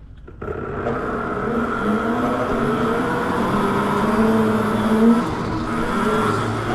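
Mini bike motor running, kicking in abruptly just after the start, its pitch wavering and rising a little as it revs.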